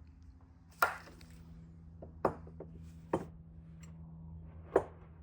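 Four sharp knocks of metal engine parts being handled and set down on a bench, over a steady low hum.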